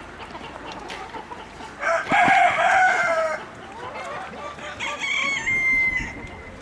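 Rooster crowing: one long crow starting about two seconds in, then a second, quieter call ending on a held high note near the end.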